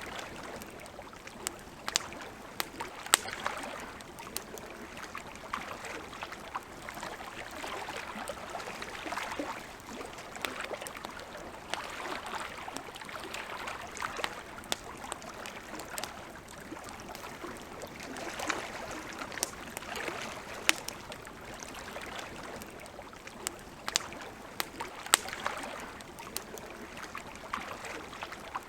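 Campfire crackling: irregular sharp pops and snaps over a steady, wavering hiss.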